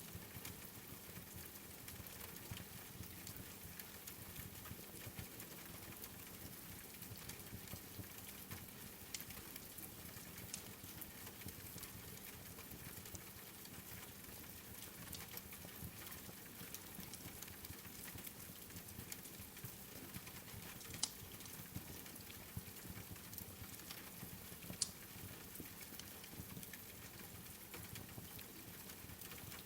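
Steady rain hiss mixed with a crackling wood fire, with many small ticks and two sharper pops in the last third.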